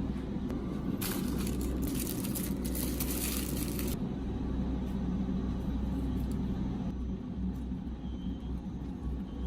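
Snack packaging crinkling and rustling for about three seconds, as a crackly burst that starts about a second in, over a steady low hum.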